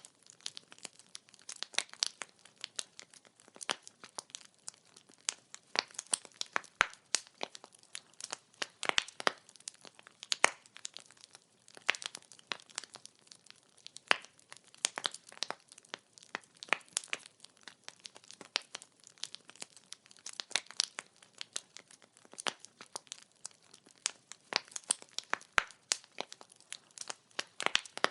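Wood fire crackling: a dense, irregular run of sharp pops and snaps from burning logs over a faint hiss, with no steady rhythm.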